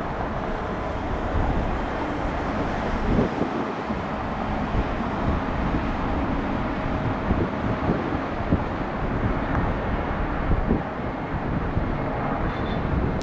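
Steady rushing engine noise of a Boeing 717-200 jet airliner at a distance, with wind buffeting the microphone.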